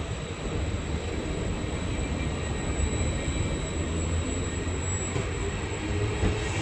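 Train approaching on the line: a steady low rumble that grows slightly louder.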